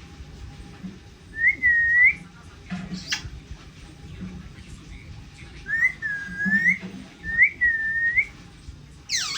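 A pet parrot whistling: three clear whistles, each dipping in pitch and then rising, with two short harsh noisy sounds between them, one about three seconds in and one near the end.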